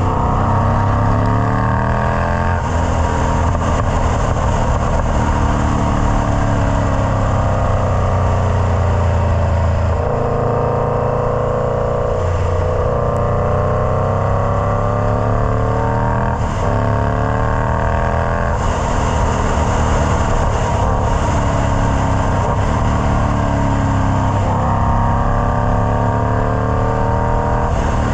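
Indian Scout Bobber's V-twin engine running through a Freedom Performance Combat 2-into-1 exhaust, its note climbing and falling over and over, with several abrupt breaks in pitch as the revs change.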